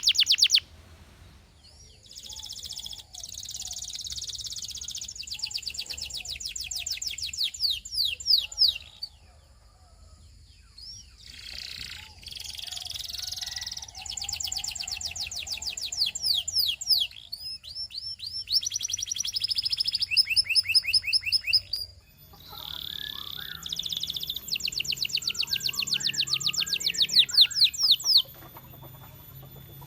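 Domestic canary singing: phrases of fast, evenly repeated high notes, each lasting a few seconds, with short pauses between them and changes of note type from phrase to phrase.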